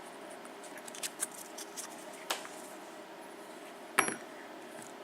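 Small metal clicks and taps from keys and a padlock being handled. There is a scatter of light clicks early on and one sharper, louder click about four seconds in.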